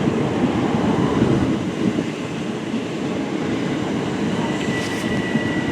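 Class 375 Electrostar electric multiple unit pulling out of the station, with a steady rumble of wheels and running gear. A thin steady high whine joins near the end.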